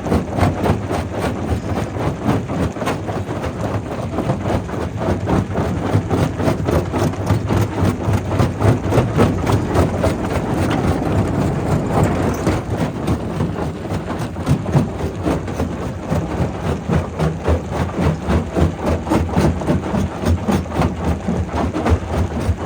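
Primary rock crusher running under load: a steady low mechanical rumble with rapid, irregular knocking of stone being broken.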